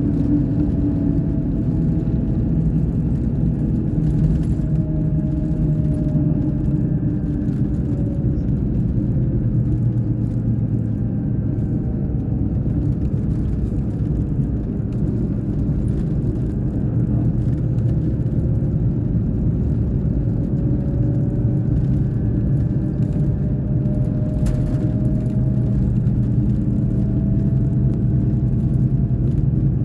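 Scania K420 bus engine running steadily under way: a low drone whose pitch drifts slightly up and down.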